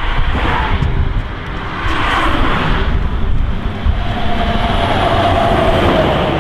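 Wind buffeting the microphone with a constant low rumble, while vehicles pass on the road in swells of noise. A steady drone from a passing vehicle comes in about two-thirds of the way through.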